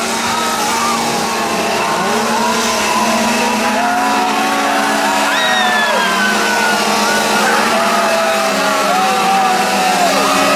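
Several people screaming and yelling, their voices gliding up and falling, one high scream about halfway through, over a steady low drone.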